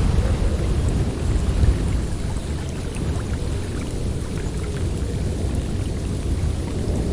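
Snowstorm wind blowing hard, a deep rushing noise that swells and eases, with a few faint light ticks above it.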